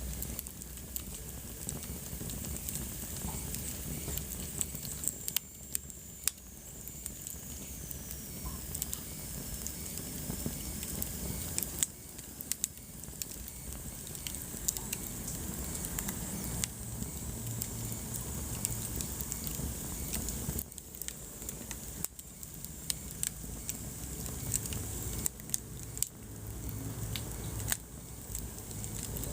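Wood fire burning in a fireplace: a steady low rumble and hiss of the flames with frequent sharp crackles and a few louder pops. A faint high whistle slides down in pitch a few seconds in.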